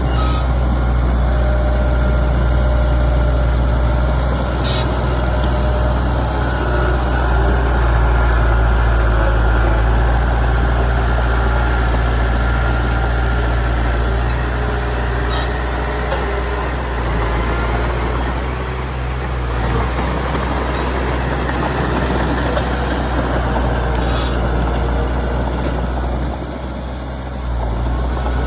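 Komatsu D31PX bulldozer's diesel engine running steadily with a low hum, with a few short sharp clicks now and then.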